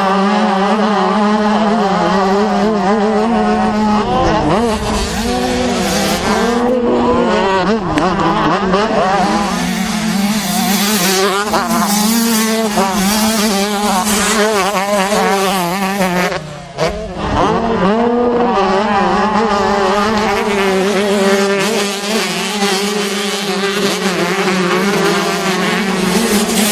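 Several racing dirt-bike engines running together, holding a steady drone while others rev up and down, with a short dip about two-thirds of the way through.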